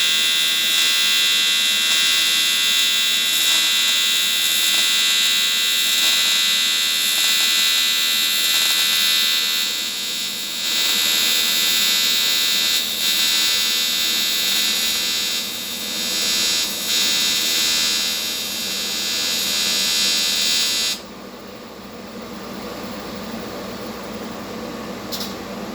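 AC TIG welding arc on aluminum from a Vulcan ProTig 205 welder: a loud, steady buzz with hiss. The arc cuts off abruptly about 21 seconds in, leaving a quieter steady hum.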